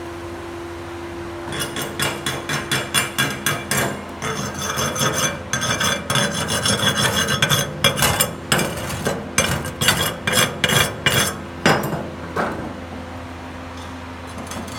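Hand tool scraping or brushing metal in quick repeated strokes, about three to four a second, starting a second and a half in and stopping about twelve seconds in, over a steady electrical hum.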